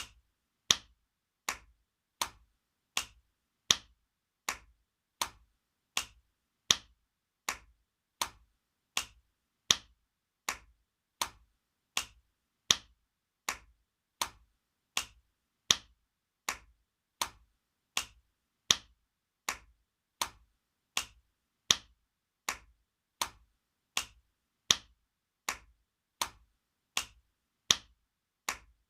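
Spanking sound effect: sharp slaps repeated at an even pace, about four every three seconds, with every fourth slap louder than the rest.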